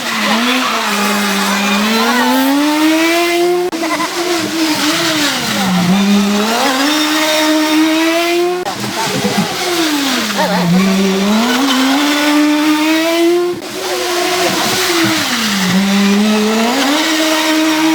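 Rally car engines, several in a row with hard cuts between them: each engine's note falls as the car lifts off into the bend, then climbs steadily as it accelerates away sideways. About four such passes.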